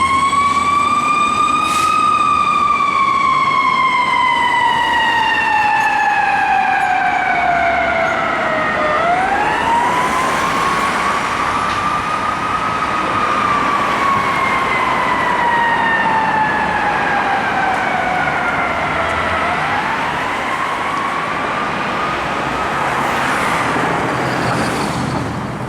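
Fire truck siren on a slow wail. The pitch rises quickly, then falls slowly over about seven seconds, and this happens three times before fading near the end, with the truck's engine rumbling low underneath.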